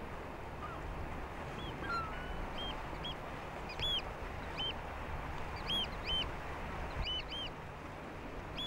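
A bird giving short, high calls again and again, each call rising and then falling in pitch, over a steady rushing background noise.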